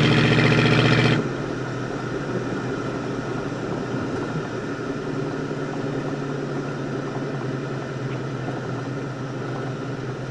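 1971 Plymouth Road Runner's 383 V8 running steadily while the car cruises, heard from inside the car with road noise. A loud, steady, single-pitched tone cuts off about a second in.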